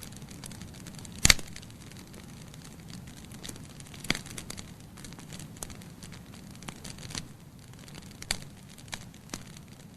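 Wood logs burning in a fireplace: a steady low hiss of flame with scattered sharp crackles and pops, the loudest pop about a second in.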